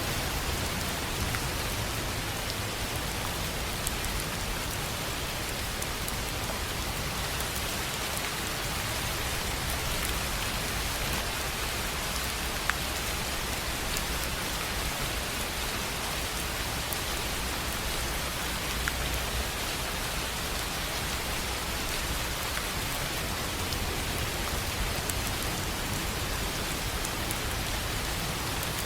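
Steady rain on a tin roof: an even hiss of many drops, with a couple of sharper single drop ticks standing out.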